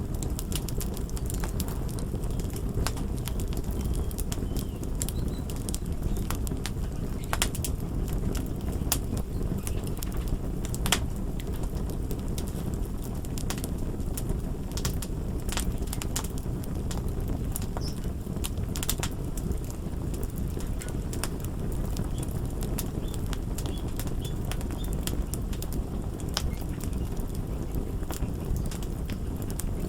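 Fire crackling: a steady low rustle with frequent sharp, irregular pops and snaps.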